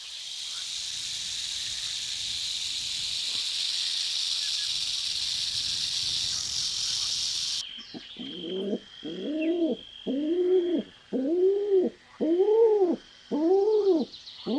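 A steady hiss that cuts off abruptly, then an animal's call repeated seven times, about once a second, each call rising and falling in pitch.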